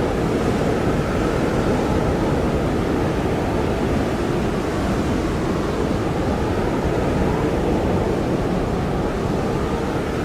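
Blizzard wind blowing hard and steadily, a dense even rush with a faint whistling tone that slowly wavers up and down.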